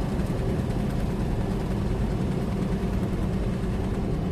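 Loaded semi truck's diesel engine and tires droning steadily inside the cab at highway cruising speed, with a low even hum.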